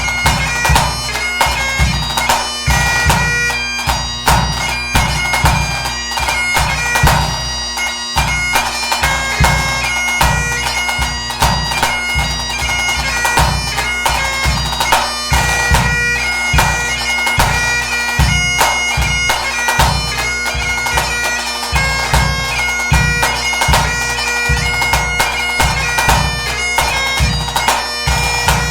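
Great Highland bagpipe playing a tune over its steady drones, with a bass drum beating a steady pulse of low strokes, about two a second, underneath.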